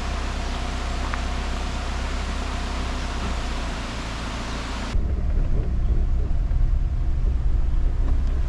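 Camper van driving: steady road and wind noise with a hiss, changing abruptly about five seconds in to a lower, deeper rumble.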